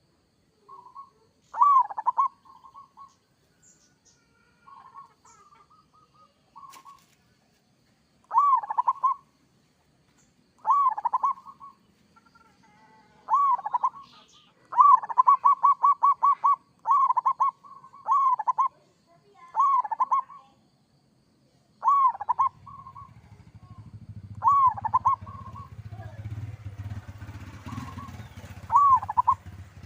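Zebra dove (perkutut) cooing in a dozen or so short repeated phrases, each a quick run of rolling notes. About halfway through it gives one longer rapid string of notes. A low steady rumble comes in about three quarters of the way through.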